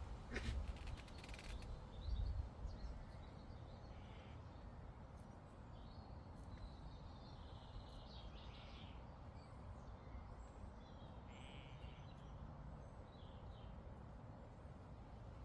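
Faint open-air meadow ambience with distant birds calling now and then, including harsh crow-like caws. A few sharp clicks and low rumbles come in the first two seconds.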